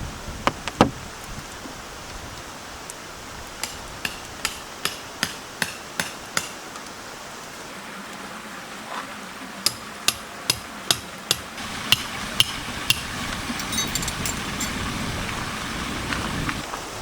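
Tent pegs being hammered into the ground, two runs of steady strikes about two and a half a second, over the steady hiss of rain and wind.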